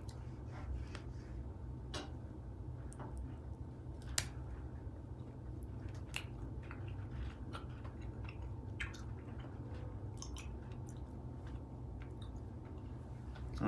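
A person chewing a piece of homemade chocolate close to the microphone, with scattered small mouth clicks and one sharper click about four seconds in, over a steady low hum.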